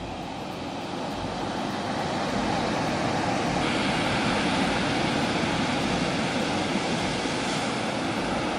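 Ocean surf rushing and breaking, swelling louder over the first few seconds and then holding steady, with wind buffeting the microphone in low thumps.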